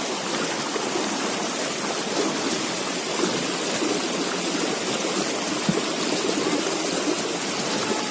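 River water flowing and rushing steadily, with one faint click about two-thirds of the way through.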